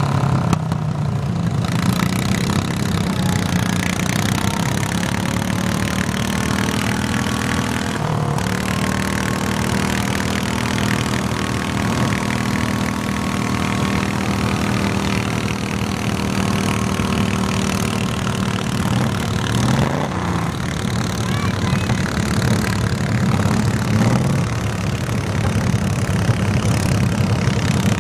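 Garden tractor engine running loud and steady for the whole stretch, its note holding one pitch through the middle.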